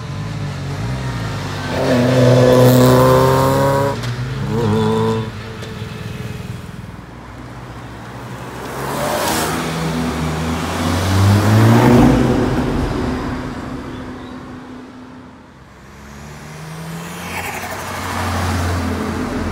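Performance cars accelerating away one after another, each engine note rising in pitch as the car pulls past, among them an Audi RS3's five-cylinder turbo engine and a SEAT Leon Cupra R's turbo four. The loudest passes come about two to four seconds in and about twelve seconds in, and another engine revs up near the end.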